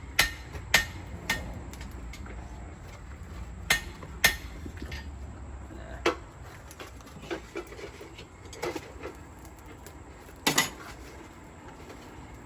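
Irregular metal clanks and knocks of blacksmith's tools at a coal forge, about ten strikes spaced unevenly, the loudest near the start, around four seconds in and near ten and a half seconds. A steady low rumble runs underneath.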